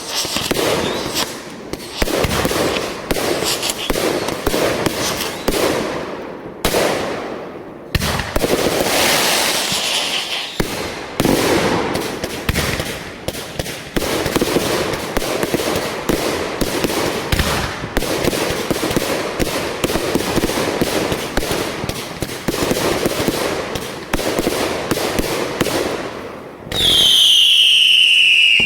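Fireworks crackling and popping in rapid, continuous volleys. Near the end a loud whistling firework shrieks for about two seconds, its pitch falling.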